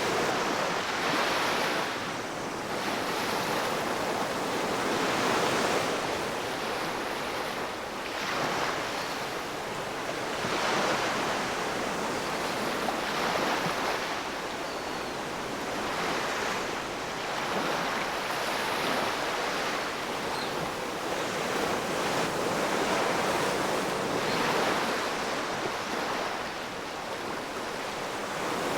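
Ocean waves breaking on the shore, a continuous rushing wash that swells with a fresh surge every few seconds.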